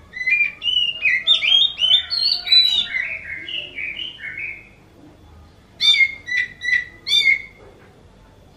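Oriental magpie-robin (kacer) singing: a rapid run of sliding notes for about four and a half seconds, then, after a short pause, four sharp separate notes.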